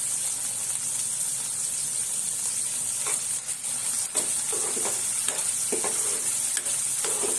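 Prawns, onion and garlic sizzling in butter in a non-stick pan, a steady frying hiss. From about three seconds in, a steel spoon stirs through them, adding irregular scraping strokes against the pan.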